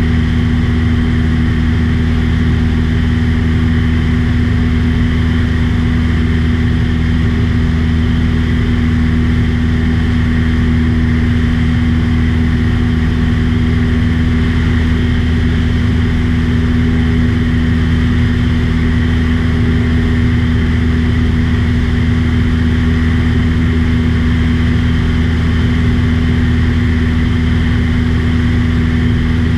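Aircraft engine and propeller drone, loud and steady, with a constant low hum that does not change in pitch.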